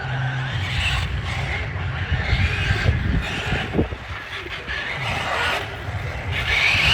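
Radio-controlled car driving, its electric motor whine rising and falling several times over a rough rumble of tyres on the ground.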